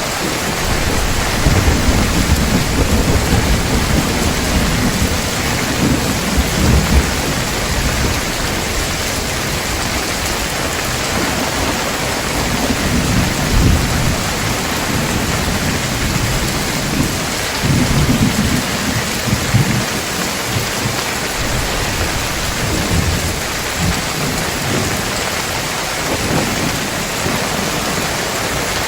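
Heavy rain falling steadily, with deep thunder rumbling in and fading several times, strongest in the first few seconds and again about halfway through.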